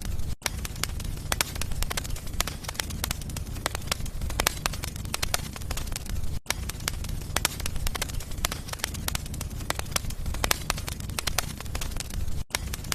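Wood fire burning in a fireplace, crackling with frequent sharp pops over a steady low rumble of the flames. The sound drops out very briefly three times, about six seconds apart.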